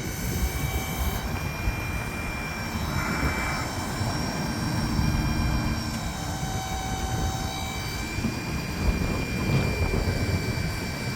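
Ford F-550 bucket truck's 6.7-litre Power Stroke V8 diesel engine running steadily, with the whine of the Altec aerial lift's hydraulic system as the boom is extended and retracted. The pitch of the hydraulic sound shifts slightly a few times as the boom moves.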